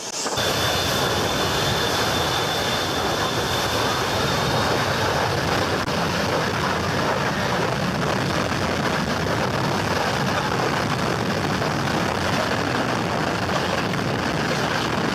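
Jet airliner's engines at takeoff thrust, heard as a steady rushing blast of jet exhaust, with a thin high whine that fades out about five seconds in.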